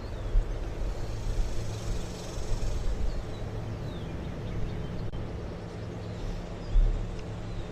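A steady low rumble with an even hum, like engines running, and a few faint bird chirps above it; a dull thump about seven seconds in.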